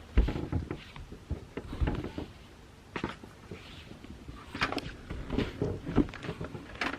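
Close, irregular handling noises: soft knocks, clicks and rustles, with a few sharper knocks in the second half.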